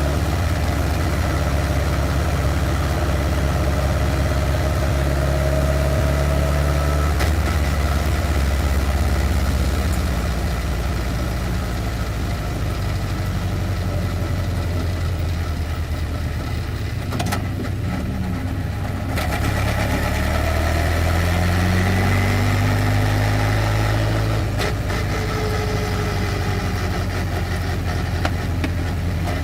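Westfield race car engine heard from on board, running at low, fairly steady revs. The engine note changes about seven seconds in, and the revs rise in steps through the last third.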